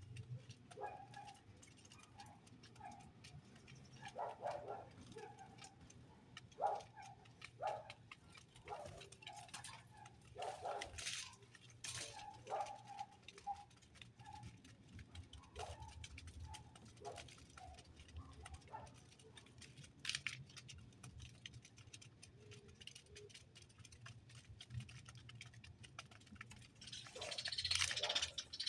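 Small caged birds heard faintly: short soft calls repeated at irregular intervals, with scattered clicks and taps as they move about, and a brief rustle near the end.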